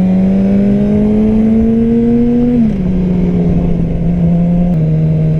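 Yamaha R6 inline-four engine under way, its note rising slowly as the bike pulls. About two and a half seconds in the pitch drops, and near the end it steps down once more.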